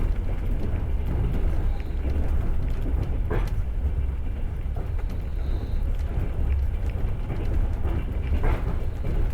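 Passenger train running on rails, heard from inside the carriage: a steady low rumble, with the sharp clack of the wheels over rail joints about three and a half seconds in and twice near the end.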